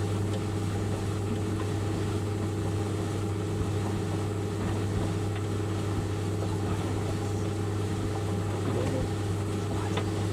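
White Knight 38A compact tumble dryer running, its motor and turning drum giving a steady low hum.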